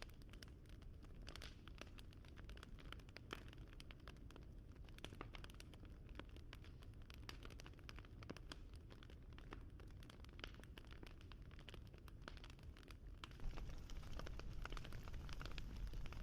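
Wood fire crackling softly: a low rumble with many small irregular pops and snaps. It grows a little louder and hissier about thirteen seconds in.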